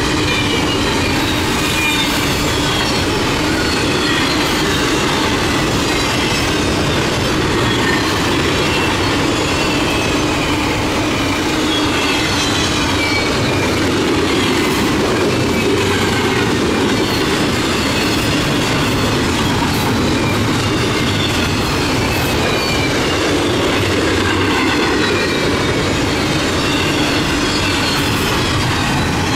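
Double-stack intermodal freight train passing close by: steady wheel-on-rail noise from the well cars, with faint high squealing from the wheels rounding a curve and scattered clicks from the wheels over the rails.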